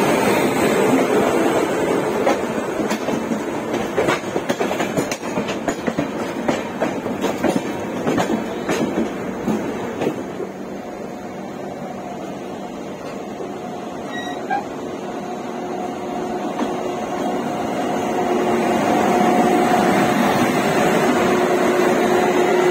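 Train running on rails, heard from an open carriage doorway: wheels rumbling with rapid clicks and clatter over the rail joints, easing off about ten seconds in. It grows louder again from about 16 s as an oncoming electric locomotive passes close on the next track, and a steady hum comes in.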